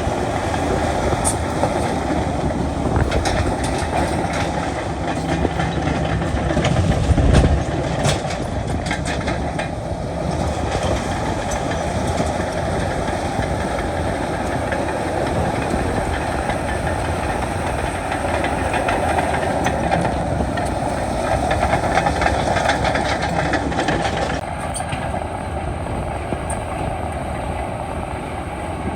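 Heavy diesel earthmoving machinery running steadily, with repeated metallic clanking and clatter of the kind made by a bulldozer's steel tracks.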